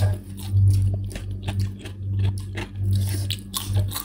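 Close-up chewing and biting of spicy instant ramen noodles, with many short clicky eating sounds, over a low hum that swells and fades every second or so.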